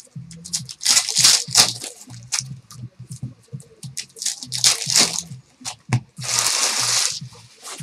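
Trading card pack wrappers crinkling and tearing in a run of short, irregular bursts, with a longer tear about six seconds in, over background music.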